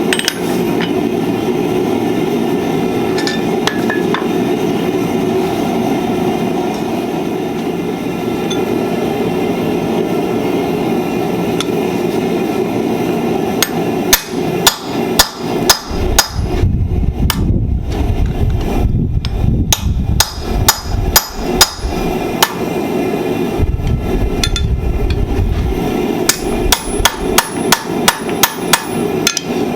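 Blacksmith's hammer striking hot steel on the anvil while forging flat-nib tongs, in quick runs of about three to four ringing blows a second. The runs come in three spells: about halfway, past two thirds, and near the end. A steady low roar fills the first half.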